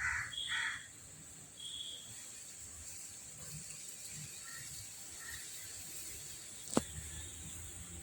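A crow cawing twice at the start, with a fainter call about two seconds in, over a steady high hiss. A single sharp click near the end.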